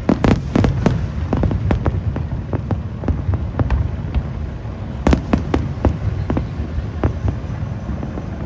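Aerial fireworks bursting in rapid runs of sharp bangs and cracks, with a dense volley at the start and another about five seconds in, over a steady low rumble.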